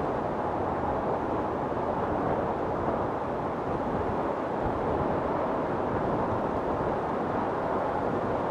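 Wind storm blowing steadily: an even rushing noise with no gusts or thunderclaps standing out.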